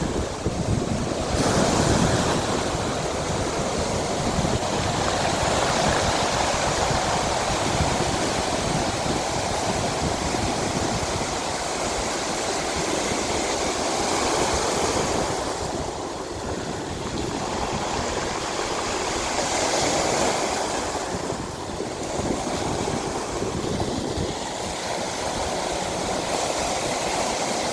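Ocean surf: waves breaking and washing in continuously, swelling louder every four to six seconds.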